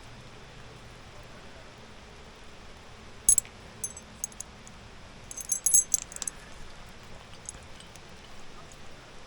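Metal climbing hardware, carabiners and rappel gear, clinking and jingling in short bursts: a few sharp clinks about three seconds in, and a louder jangling cluster around five to six seconds in.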